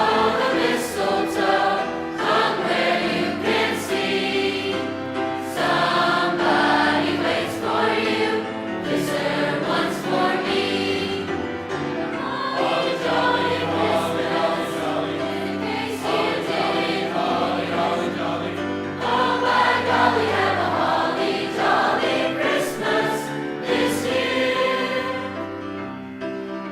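High school choir singing a Christmas song in phrases over a low accompaniment; the singing fades near the end.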